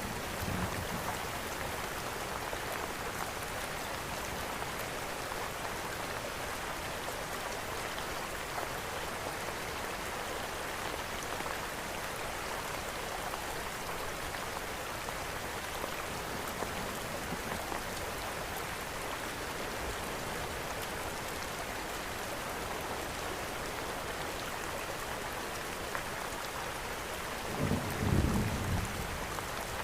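Steady rain falling, an even hiss. Near the end a short, low rumble of thunder swells and fades.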